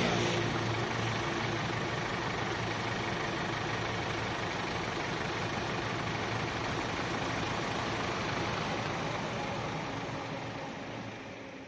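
Heavy diesel engine of concrete-pouring machinery running steadily, fading away near the end.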